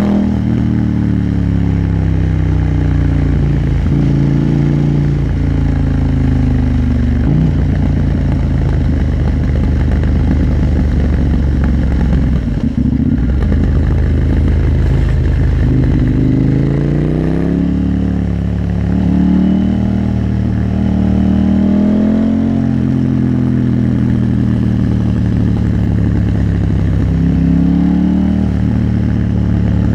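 KTM 890 Duke R's parallel-twin engine running under way, its pitch climbing and then dropping several times as the bike accelerates and shifts gear, mostly in the second half.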